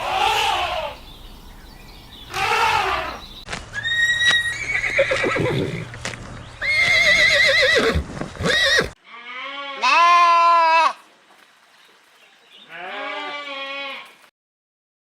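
A series of farm animal calls, cut one after another, each call a second or two long, several with a wavering, shaking pitch.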